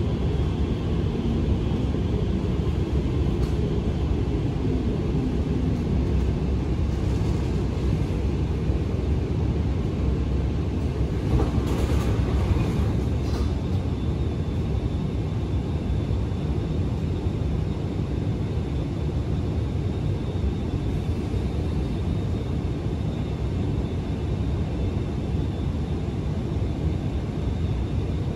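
Steady low rumble inside an Alstom Movia R151 MRT train car, with a brief higher-pitched noise a little before the midpoint.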